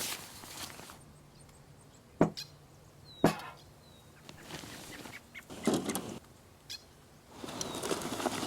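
Two sharp knocks about a second apart amid rustling and handling noises, with a faint short bird chirp.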